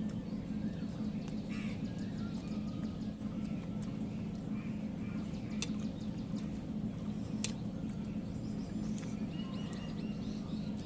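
A steady low hum with faint bird calls over it and a few sharp clicks, two of them standing out about halfway through.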